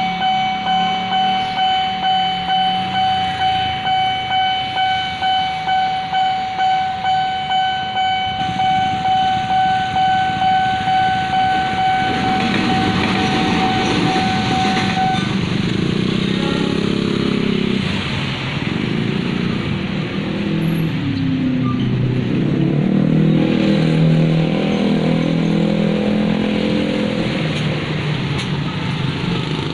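Railway level-crossing warning bell ringing one steady tone in quick repeated strokes, about two a second, until it stops about fifteen seconds in. From about twelve seconds in, the engines of road traffic, motorcycles among them, run and change pitch as vehicles move over the crossing.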